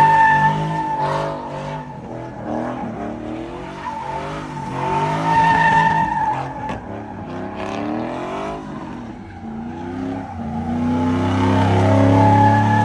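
Truck engine revving up and down with a steady high-pitched squeal of spinning tyres, as in a burnout. The engine note swells loudest near the end.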